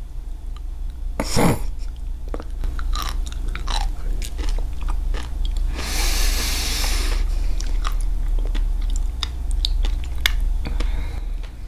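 Close-miked chewing of sea grapes (umibudo seaweed), a run of small crisp clicks and pops as the beads burst. A louder knock comes about a second in, and a noisy rustle lasting about a second near the middle.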